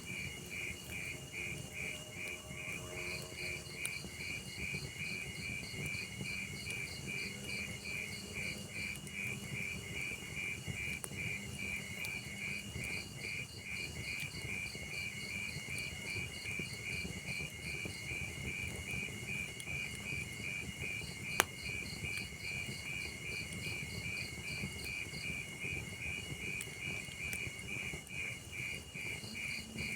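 Crickets chirping in a rapid, even pulse with no break, over the low, soft crackle of a log fire. One sharp pop about two-thirds of the way through, the loudest sound here.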